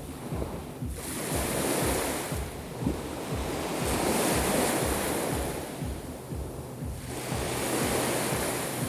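Black Sea surf: waves breaking and washing up the shore, swelling and fading about three times. Wind buffets the microphone with low rumbles throughout.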